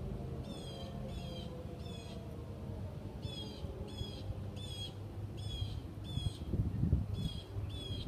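A bird calls about eleven times in short, harsh, rasping notes, in loose groups of two or three, over the faint falling tone of an outdoor warning siren winding down. Low rumbling bursts come in near the end.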